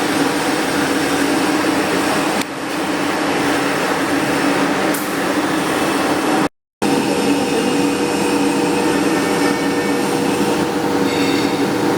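Flux-cored arc welding on carbon steel pipe: the arc burns steadily with a continuous crackling hiss over a steady hum. Just past halfway, the sound cuts out completely for a fraction of a second.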